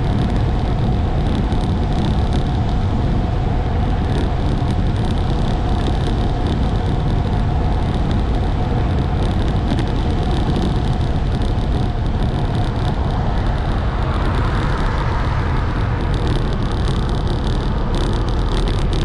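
Wind rushing over the microphone and tyre noise from a road bicycle riding at speed, a steady loud rush heavy in the low end with a faint hum that fades out about two-thirds of the way through.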